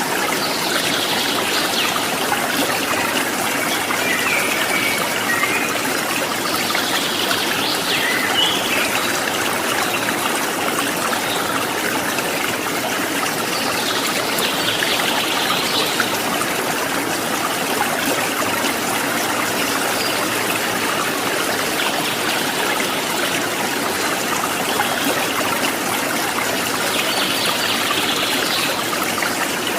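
A stream of water trickling and babbling steadily, with birds calling every few seconds over it.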